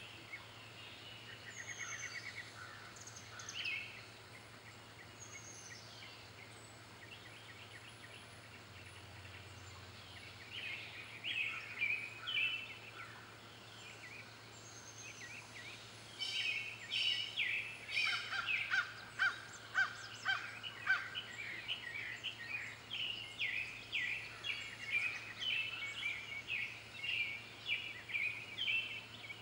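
Wild birds calling and chirping in quick, short notes. Scattered at first, they become busier and louder about halfway through, over a faint steady low hum.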